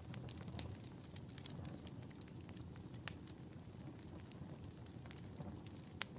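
Wood fire burning in a fireplace: a steady low rumble with scattered crackles and a few sharp pops, the loudest about three seconds in and another near the end.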